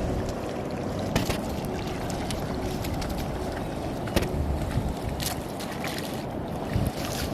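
Shallow water sloshing and swishing as a seine net is hauled through an estuary, with wind buffeting the microphone and a few sharp clicks.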